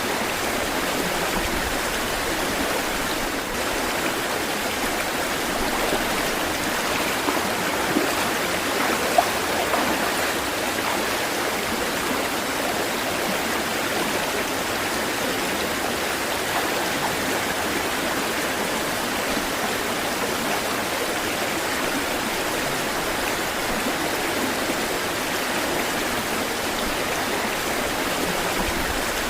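Water flowing steadily in a stream, an even rushing sound with no surges, broken by two brief sharper sounds about eight and nine seconds in.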